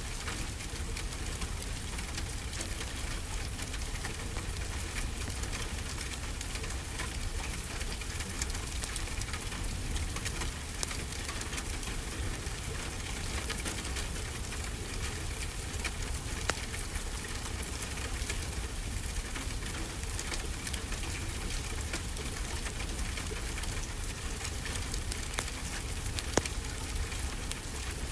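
Steady rainfall blended with a crackling wood fire: an even hiss with frequent small pops and clicks and a low rumble underneath, and a couple of sharper pops about 16 and 26 seconds in.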